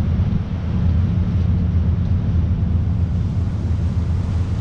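Trawler's inboard engine running steadily at low speed, a constant low drone.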